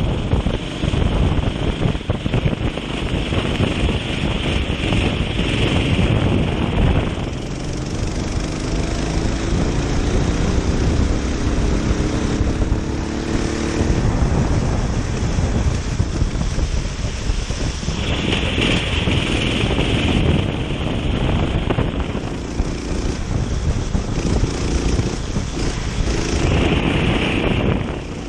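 Kart engine running at racing speed, heard over heavy wind noise on the microphone. From about a quarter of the way in, its pitch climbs steadily for several seconds as it accelerates.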